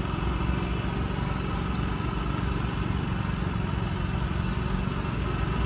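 An engine idling with a steady low hum that does not change.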